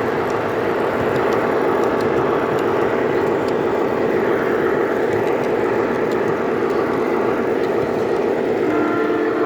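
Model train running on its layout track: a steady rumble from wheels and motor, with faint scattered clicks. A few brief steady tones come in near the end.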